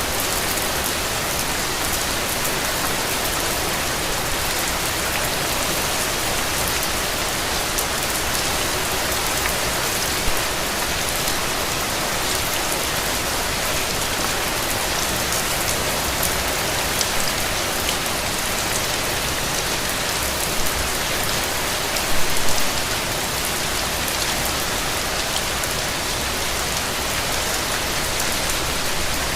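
Steady rain falling on a surface, with a few louder drops or patters here and there, the biggest about two-thirds of the way through.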